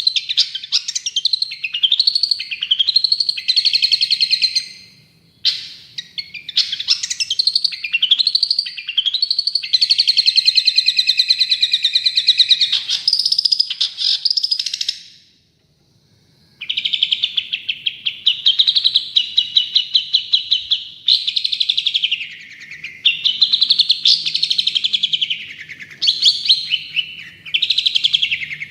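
Long-tailed shrike (cendet) singing a loud, continuous chattering song of rapid trills and varied high-pitched phrases, with one short pause about halfway through.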